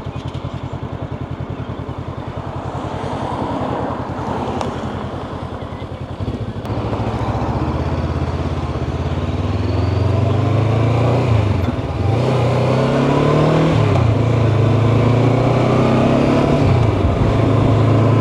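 Honda CB500X parallel-twin engine idling steadily, then pulling away about six seconds in, its revs climbing and dropping back at each upshift, about three times, as the bike gathers speed.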